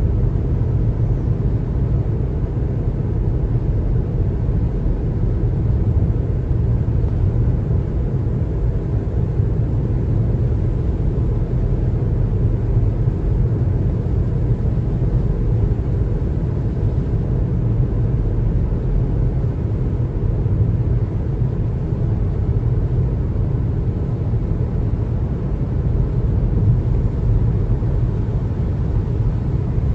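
Steady low rumble of a car driving at highway speed: tyre and road noise with the engine running, unchanged throughout.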